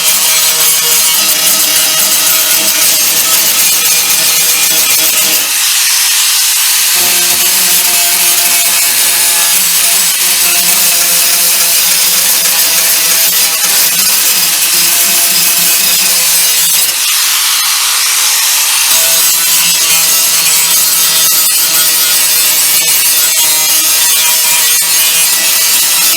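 Angle grinder grinding welds flat on the Beetle's steel body panel: a loud, continuous rasp over the motor's steady hum, with the hum dropping out briefly twice.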